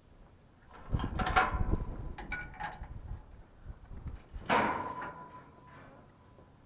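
Scrap metal being shifted and knocked together to make room: a clattering rattle about a second in, a few lighter knocks, then a sharp metal clank about four and a half seconds in that rings on for over a second.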